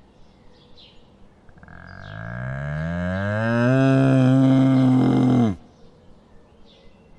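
Cow mooing: one long, low moo, about four seconds, rising in pitch and then held before cutting off suddenly.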